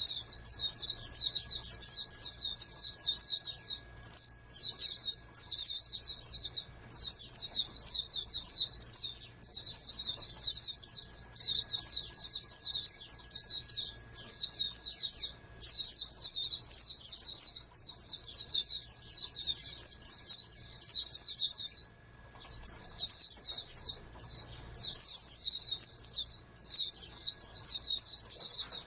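White-eye (pleci) singing: a fast, high-pitched twittering song in phrases of one to three seconds, separated by brief pauses.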